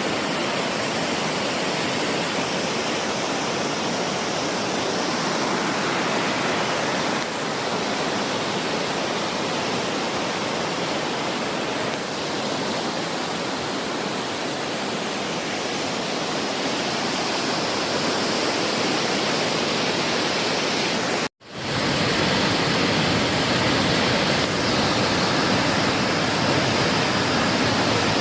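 Rushing water from a mountain stream or waterfall: a loud, steady roar. It breaks off for an instant about 21 seconds in, then carries on as before.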